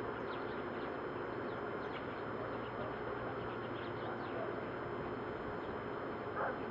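Faint, short bird chirps over a steady background hiss, with a brief louder sound near the end.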